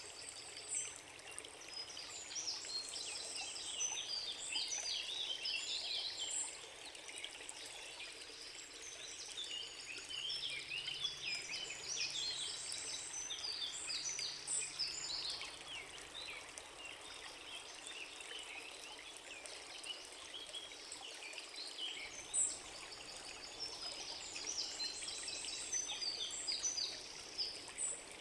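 Forest ambience: songbirds chirping and trilling in bursts over a steady rush like running water.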